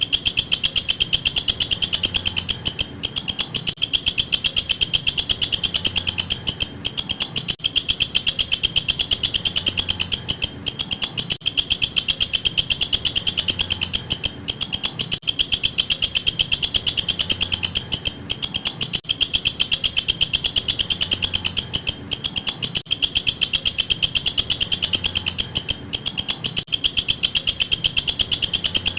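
Walang kecek bush cricket (katydid) calling: a loud, high-pitched, rapid pulsed trill that breaks off briefly every few seconds and then starts again.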